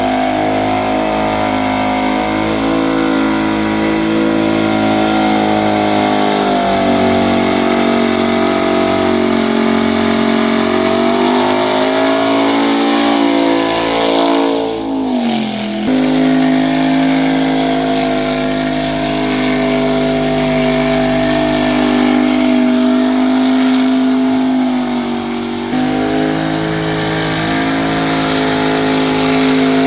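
Car engine held at high revs during a burnout, running steadily near the top of its range. The revs sag and climb back a few times, falling away sharply about halfway through before snapping back up.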